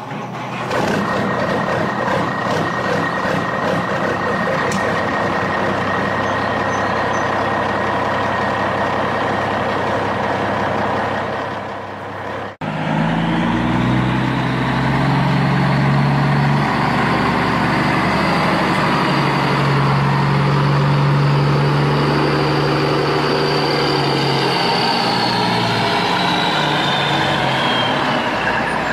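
Truck engine running steadily. A little under halfway it cuts off abruptly and comes back as a deeper, heavier engine hum with a high whine that climbs at first and slides down in pitch near the end.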